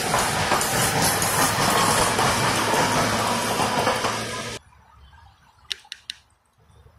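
SEPTA Silverliner IV electric commuter train passing at speed: a loud, steady rush of wheels on rail and air that cuts off suddenly about two-thirds of the way through. A few faint clicks follow.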